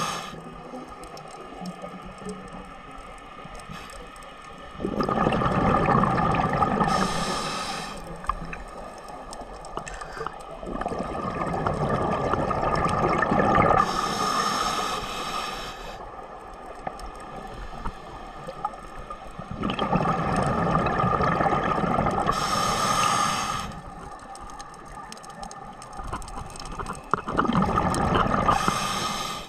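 Ocean waves surging in and washing around a tugboat wreck: four loud surges of a few seconds each, about every seven to eight seconds, with quieter washing and gurgling water between them.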